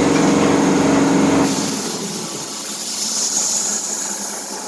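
A machine runs with a steady hum and cuts off about a second and a half in, leaving a steady hiss like escaping air.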